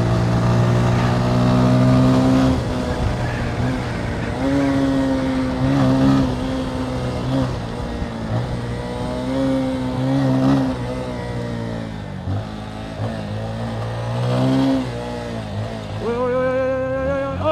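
Motorcycle engine running under way, its pitch rising and falling several times with throttle and gear changes.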